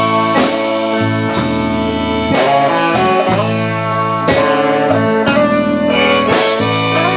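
Live band music: an instrumental passage led by guitar over bass, the chords changing about once a second.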